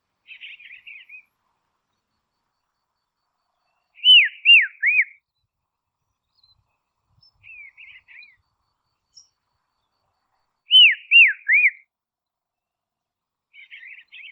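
Dusky robin calling: two loud phrases of three clear whistled notes, each note sliding down in pitch, with softer twittering phrases between them.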